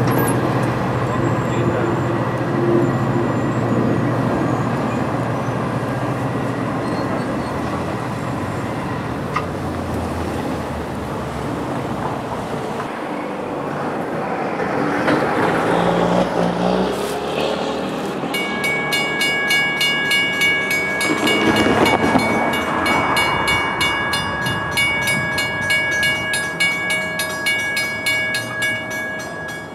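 NJ Transit diesel-hauled commuter train running past, with a steady low engine note in the first half and two louder swells as it goes by. From about 18 seconds in, a steady high ringing with a rapid, even beat sounds alongside it.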